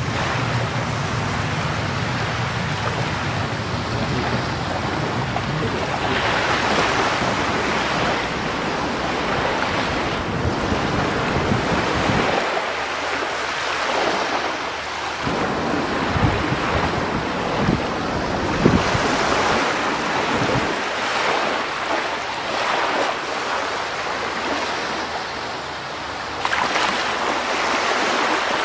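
Sea waves washing onto the shore, swelling and ebbing every few seconds, with wind rumbling on the microphone for roughly the first twelve seconds.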